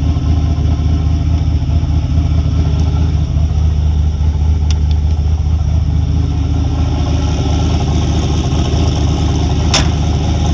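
Turbocharged 4.8-litre Gen 3 LS V8 idling steadily while it warms up from a cold start on E85. A faint sharp click comes about halfway through and a louder one near the end.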